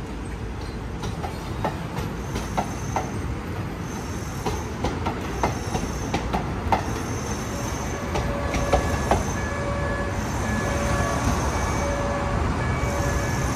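Train wheels running on rails under a steady low rumble: scattered clicks in the first half, then from about eight seconds in a wheel squeal of steady high tones, the whole slowly getting louder.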